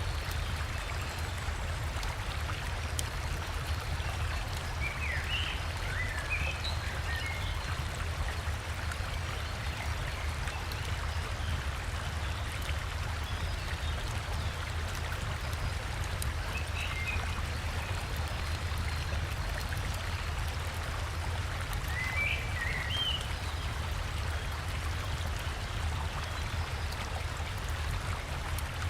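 A river or waterfall running steadily, its flowing water a constant rush with a deep low rumble. Over it a small bird gives short chirping calls three times, about five, seventeen and twenty-two seconds in.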